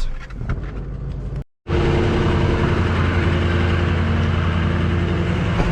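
Rollback tow truck's engine idling steadily, a constant low drone with a few steady tones above it. It is quieter with a few light clicks at first, then the sound drops out for an instant at an edit cut about a second and a half in and the idle comes back louder.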